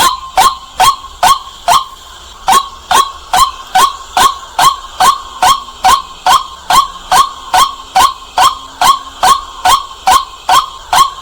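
White-breasted waterhen calling: a loud, steady run of sharp 'kwak' notes, about two and a half a second, each note dropping slightly in pitch.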